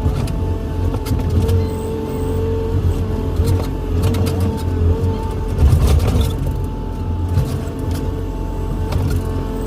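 Excavator running under load: a steady diesel engine rumble with a hydraulic whine that comes and goes, and scattered metallic clanks.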